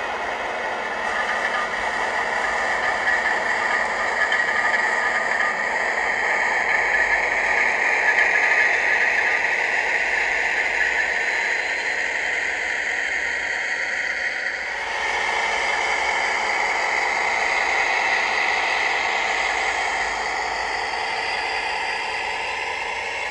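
Recorded British Rail Class 56 diesel locomotive engine sound played by a DCC sound decoder through a small speaker in a model locomotive, thin with almost no bass. The engine note builds over the first several seconds and changes suddenly about fifteen seconds in, as on a change of power notch.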